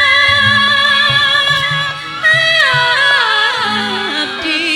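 A female singer in gamelan style holds a long high note, then about halfway through glides down in a run of small steps to a lower note held with vibrato. Short low drum strokes accompany her.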